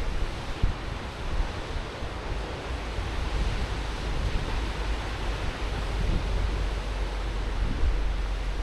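Ocean surf breaking and washing on the shore, a steady rush, with wind buffeting the microphone in low rumbling gusts that grow stronger near the end.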